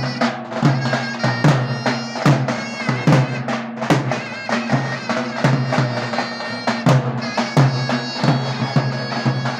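Davul and zurna playing folk dance music: the shrill double-reed zurna holds a sustained melody over steady strokes of the davul bass drum, about two to three strokes a second.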